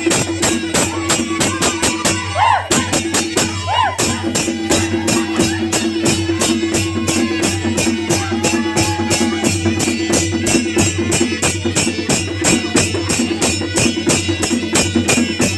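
Nepali naumati/panche baja band playing a folk tune: a held reed-pipe melody over rapid, even clashing of small cymbals, about five strokes a second, with drums beneath. The held tone breaks off briefly about three seconds in.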